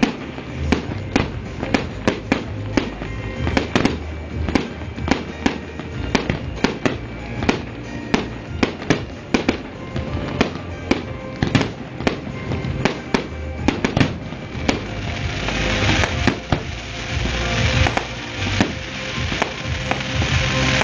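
Fireworks display: a steady stream of shell bursts and bangs, about one or two a second, with a thicker crackling hiss building about two-thirds of the way through. Music plays underneath.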